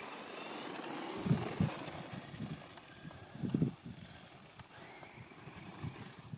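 1/10-scale HSP Torche Pro brushless electric RC truck driving, its motor giving a high whine that fades out about two seconds in, with several irregular dull thumps as it bounces over the ground.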